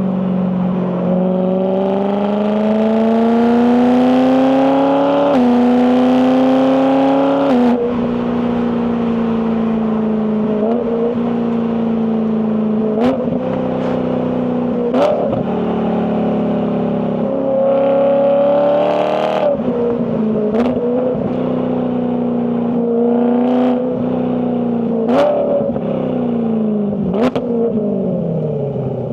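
BMW E92 M3's 4.0-litre S65 V8 under load through its exhaust, revving up with quick gear changes that cut the pitch about five and seven seconds in. It then runs fairly steady with short sharp cracks every few seconds, and the pitch falls away near the end as the car slows.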